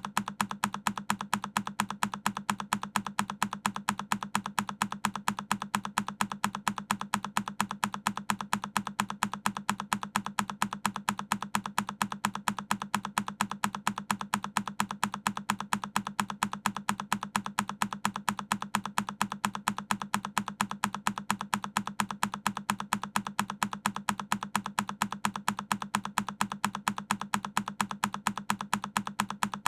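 A single key press on a Keychron K10 mechanical keyboard, looped so that one key click repeats again and again at a quick, perfectly even rate.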